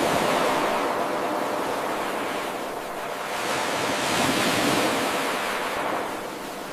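Ocean waves washing onto a shore: a steady rush of surf that swells near the start, eases a little about three seconds in, swells again, and ebbs toward the end.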